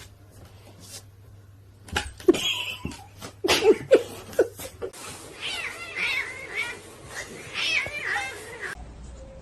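A burst of sharp knocks and thumps, then a cat meowing and yowling over and over, each call rising and falling in pitch.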